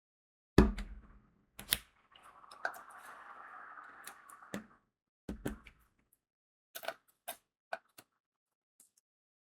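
Diamond painting handiwork: crystal beads and tools knocked and clicked against the tray and canvas. A heavy knock comes about half a second in, with a few more knocks and light clicks later. In the middle is a couple of seconds of soft, steady rattling noise.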